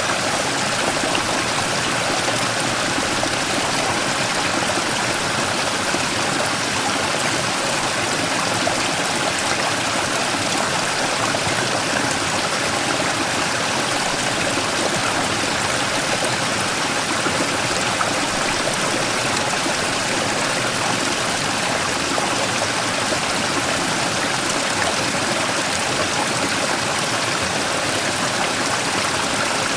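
Mountain stream rushing and splashing steadily over a large rock, a small waterfall.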